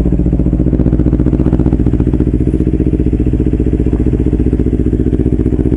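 Kawasaki Versys-X 250's parallel-twin engine idling steadily soon after a cold start, through a Norifumi slip-on exhaust with no dB killer fitted, at about 85–86 dB.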